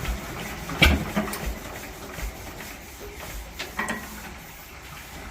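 Metal knocks and low thumps from the Lister CS diesel engine being worked by hand while it is not running, the loudest knock about a second in and a few smaller clanks later.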